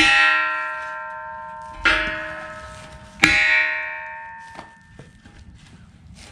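Hammer blows on a steel I-beam. There are three hard strikes about a second and a half apart, each leaving the beam ringing with a bell-like tone that slowly fades, then two light knocks.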